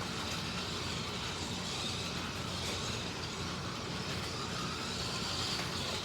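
Slot cars (two MR Slotcar Cunningham Corvettes and a Scalextric Mercedes 300 SLR) lapping the track. Their small electric motors whine, rising and falling in pitch as they speed up and slow for corners, over a steady rumble of wheels running on the track.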